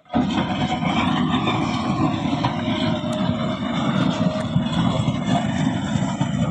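Diesel engine of a heavy earthmoving machine running steadily under load; it cuts in suddenly at the start.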